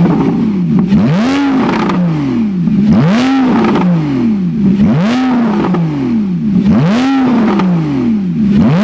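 Porsche 911 Carrera 4 (991) flat-six revving through an aftermarket Tunist dual valve exhaust. The engine is blipped up sharply and allowed to fall back about every two seconds, five times in a row.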